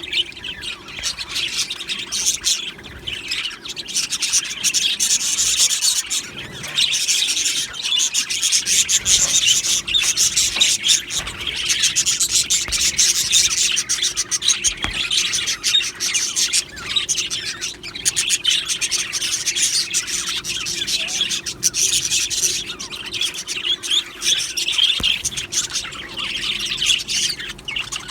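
A flock of budgerigars chattering and chirping all at once in a continuous, dense, high-pitched warble.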